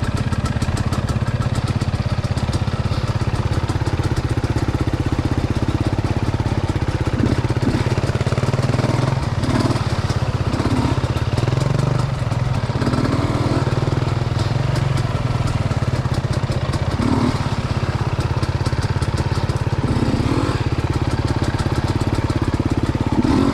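Dirt bike engine running steadily, with a fast, even firing pulse.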